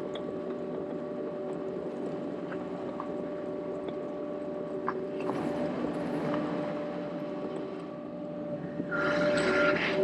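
Gehl skid steer loader running steadily, its engine and hydraulics giving a constant hum with a whine. About nine seconds in a louder rush of noise starts as the machine works, and a reversing beep sounds.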